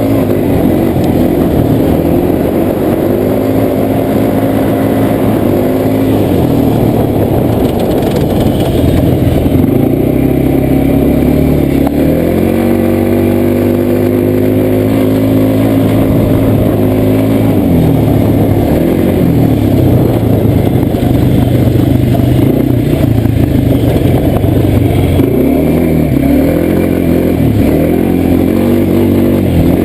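Quad bike (ATV) engine running loud and close under way, its pitch rising and falling again and again as the throttle is opened and eased off.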